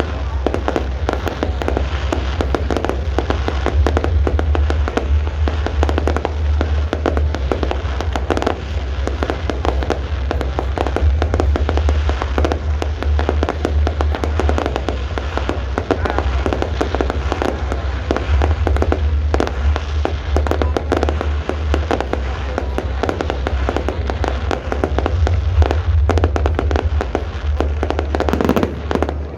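Aerial fireworks display going off continuously: a dense run of bangs and crackles with a low rumble underneath.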